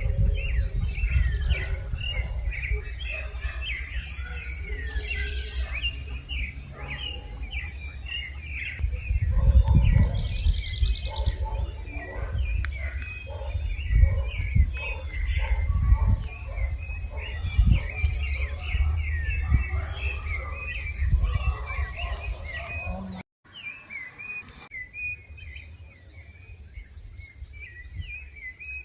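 Many birds chirping and calling at once, a dense chorus of short rising and falling notes, over a low rumble. A brief dropout comes about four-fifths of the way through, after which the rumble is weaker and the birdsong carries on more faintly.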